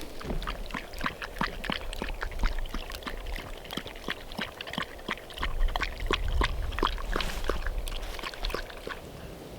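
A dog crunching and chewing food, a quick, irregular run of sharp crunches.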